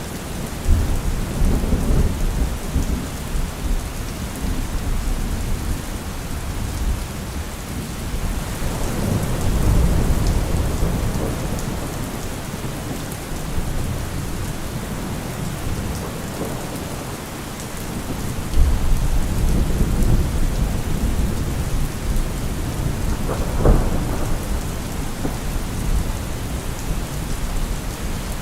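Steady heavy rain with rolling thunder that swells several times, and a sharper crack of thunder a little after two-thirds of the way through.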